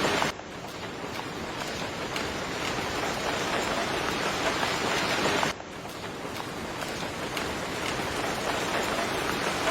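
Steady rainfall, an even hiss of falling rain. The level drops suddenly twice, about a third of a second in and again about five and a half seconds in, then builds back up each time.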